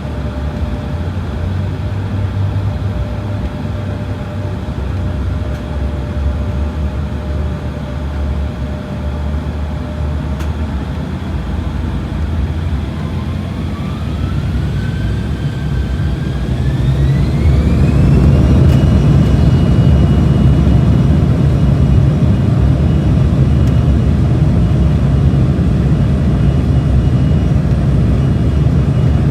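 Aircraft engines spooling up for takeoff over a steady low rumble. About halfway through, a whine rises in two steps to a high steady pitch as the engines reach takeoff power, and the rumble grows louder and stays loud.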